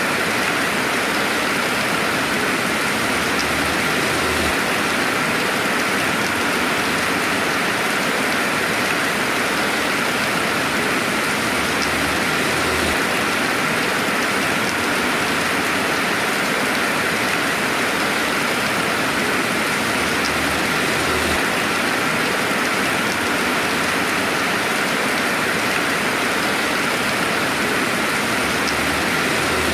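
Steady, even rainfall with no thunder, heard as a dense hiss of drops.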